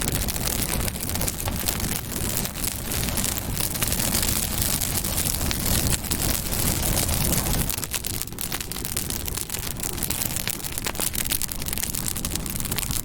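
Campfire burning: wood crackling with many small sharp pops over a steady low rush of flame.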